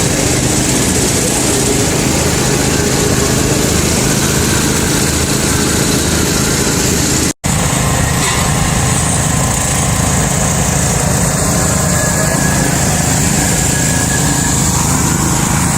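Garden tractor engine running steadily while driving, with an abrupt momentary dropout about seven seconds in.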